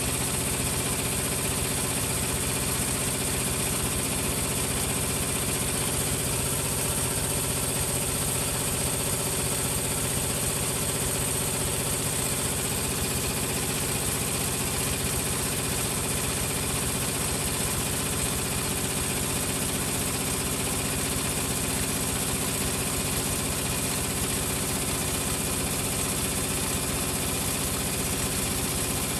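Hoover Logic washing machine spinning steadily on its Cotton 60 programme with 1100 spin. The motor and drum give an even hum and whine that hold the same speed throughout, with no pauses or drum reversals.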